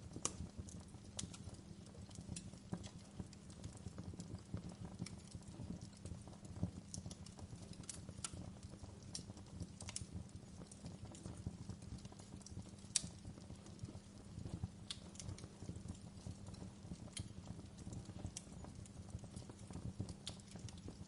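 Wood fire crackling in a fireplace: irregular sharp pops and snaps over a low steady rumble, with one louder pop about two-thirds of the way through.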